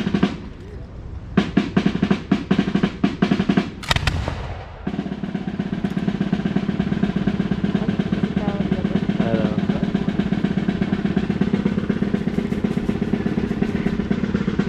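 Snare drumming: a run of quick, separate beats, then a steady drum roll from about five seconds in.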